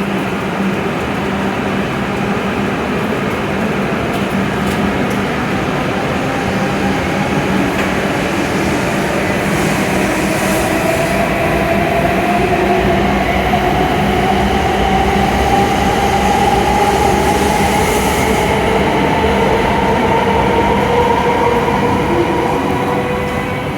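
W7 series Shinkansen train pulling away and accelerating, its traction motors giving a whine that slowly rises in pitch over the rumble of the train, growing louder.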